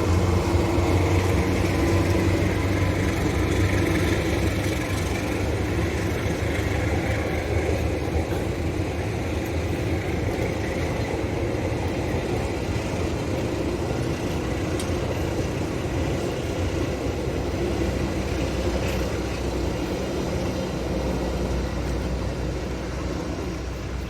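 A train running by with a steady engine rumble, easing off slowly toward the end.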